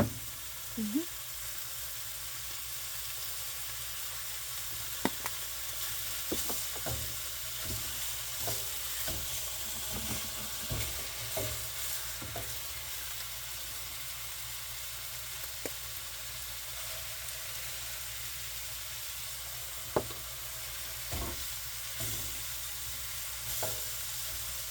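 Food sizzling in a frying pan, a steady hiss, with scattered clicks and knocks of utensils against the pan, one louder knock near the end.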